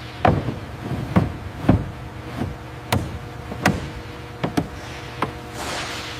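About nine sharp knocks at irregular intervals of roughly half a second to a second, over a steady low hum.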